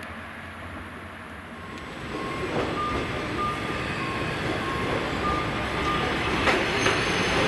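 Chizu Express HOT3500 diesel railcar moving slowly along the platform, its engine and wheels running, with a couple of sharp wheel clicks near the end. A short tone repeats about twice a second behind it. The sound steps up about two seconds in, after quieter outdoor background.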